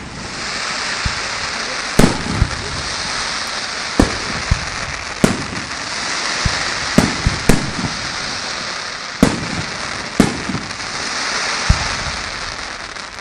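Fireworks going off: a continuous hissing crackle that swells and fades, with about eight sharp bangs scattered through it.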